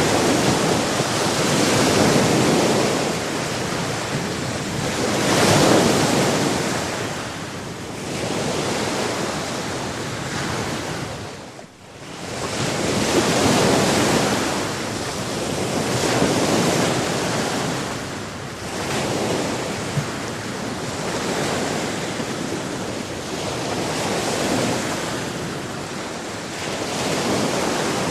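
Sea surf: waves breaking and washing in, the rush of water swelling and fading every few seconds, with a sudden brief drop in level about halfway through.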